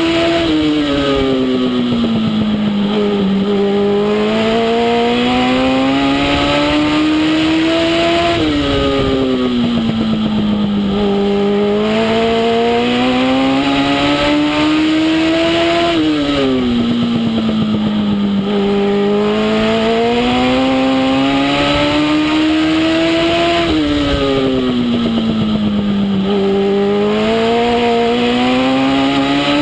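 Legend race car's Yamaha motorcycle engine running hard lap after lap. Its pitch climbs steadily for several seconds, then drops sharply and dips before climbing again, a cycle of about 8 s repeated four times: accelerating down the straights and lifting for the turns of a short oval.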